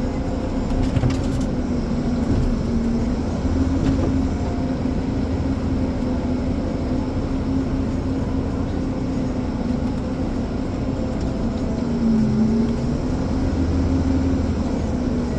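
Ponsse Elephant forwarder's diesel engine running steadily, its pitch dipping briefly under load about twelve seconds in.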